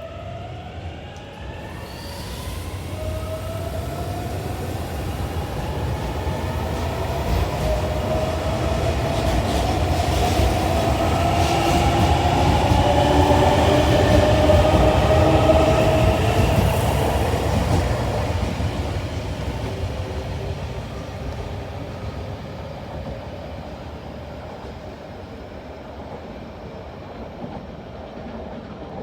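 JR Shikoku 8000-series electric express train accelerating past: a rising whine from its traction motors climbs in pitch over a low wheel-on-rail rumble with clickety-clack. It grows louder to a peak about halfway through, then fades as the train draws away.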